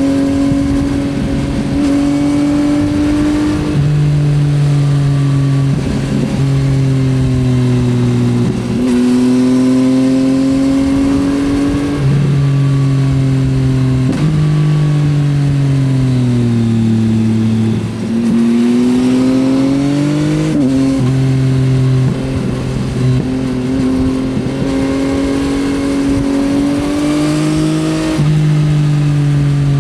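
Yamaha XSR900's inline-triple engine through an Akrapovič exhaust, recorded on board while riding. The engine pitch holds, steps and glides as the throttle and gears change; it falls away during a slowdown near the middle, then climbs again as the bike accelerates.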